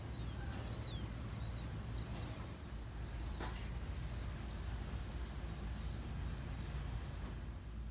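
Birds chirping: a quick series of short down-slurred calls in the first couple of seconds, over a steady low rumble of outdoor background noise. A single sharp click about three and a half seconds in.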